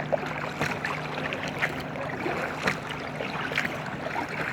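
Kayak paddle strokes splashing in the water beside an inflatable kayak, a splash roughly every second over steady water noise, with a faint low hum underneath.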